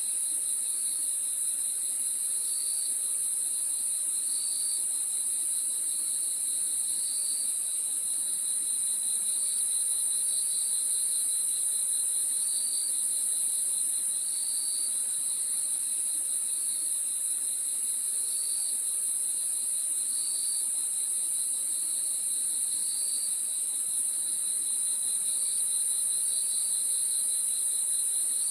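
Crickets chirping at night in a dense chorus: a steady high-pitched trill under a lower series of short chirps repeating about once a second.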